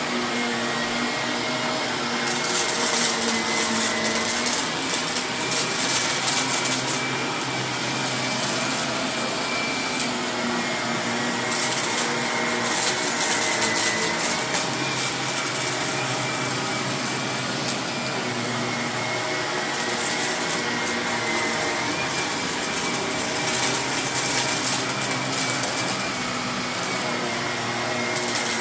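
Vacuum cleaner running steadily on carpet, with several stretches of loud crackling as crunchy hidden debris is sucked up.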